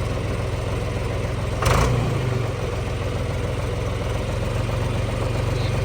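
An engine idling steadily, with a short, louder burst of noise just under two seconds in.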